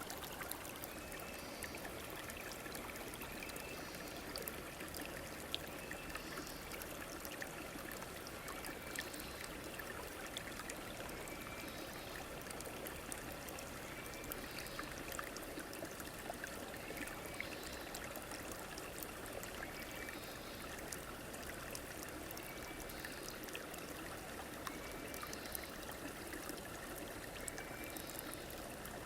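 River water flowing steadily in a continuous rushing trickle, with a short high chirp repeating about every one and a half to two seconds.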